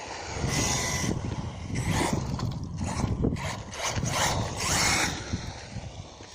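Radio-controlled car running on a 4S battery, driving hard across loose dirt with its tyres scrabbling and scraping over the ground in a run of noisy bursts. A brief rising whine from the electric motor comes about four and a half seconds in, before the sound fades near the end.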